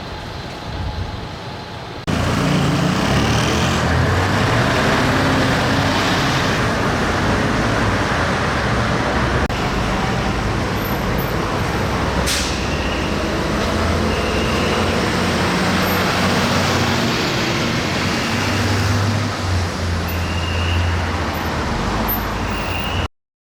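Heavy diesel truck engine running close by over city traffic noise. It starts abruptly about two seconds in, and there is one sharp click-like sound about halfway through.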